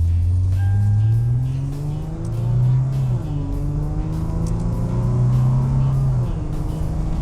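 Lexus IS250's 2.5-litre V6 accelerating hard through the gears, rising in pitch and dropping at each upshift, about three seconds in and again about six seconds in.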